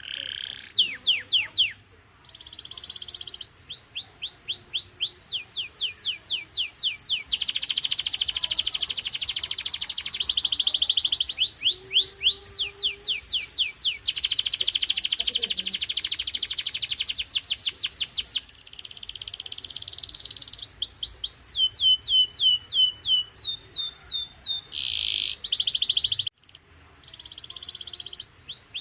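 Canary singing a long, continuous song: phrases of one note repeated rapidly, each note a quick downward sweep, alternating with denser, buzzier rolls, switching to a new phrase every few seconds.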